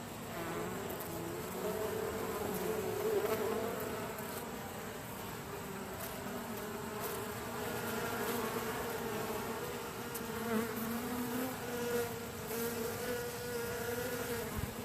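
Honey bees buzzing around an open hive, a steady wavering hum with several pitches drifting slightly, with a few faint knocks.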